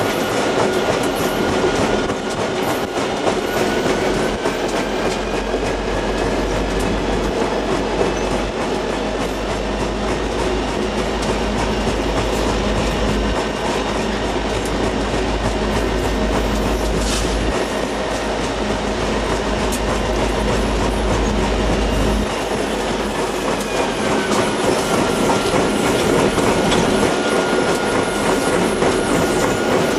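Railroad cars rolling steadily past, wheels clicking over the rail joints with a thin, steady high-pitched wheel squeal running through it.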